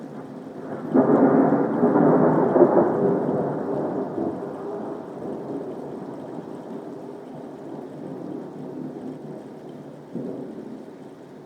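A thunderclap breaks suddenly about a second in, stays loud for a couple of seconds, then rolls away into a long fading rumble, with a smaller rumble near the end. Soft rain falls underneath.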